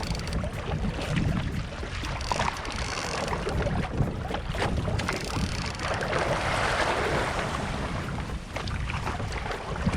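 Wind buffeting the microphone with water sloshing around a kayak, a steady rushing noise with a brief hissy swell about six to eight seconds in.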